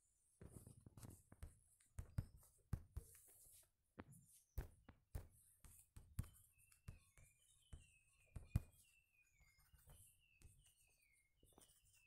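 Near silence broken by scattered faint clicks and knocks. From about six seconds in, a bird chirps a quick run of short falling notes, a few each second.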